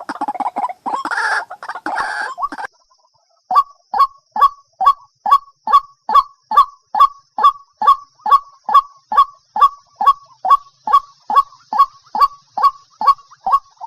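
White-breasted waterhen calling: a dense, rough chatter for the first two and a half seconds, then after a short pause a long run of even, clipped 'kook' notes, about two and a half a second.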